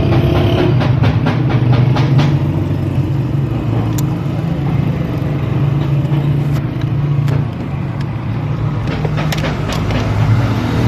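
A vehicle engine running steadily, with scattered sharp clicks over it.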